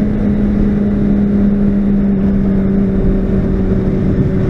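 Motorcycle engine running at a steady pitch while cruising, the note sagging slightly lower, over wind and road rumble on the rider's camera.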